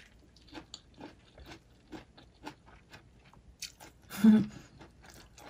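A person chewing a mouthful of fresh rice-paper roll with grilled pork sausage and crunchy tiny fried egg rolls (chả giò): irregular small crunches and mouth clicks. About four seconds in there is a brief, louder hum of the voice.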